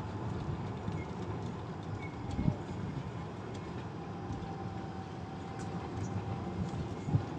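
Golf car driving uphill: steady rumble of the ride, with two short low thumps, about two and a half seconds in and near the end.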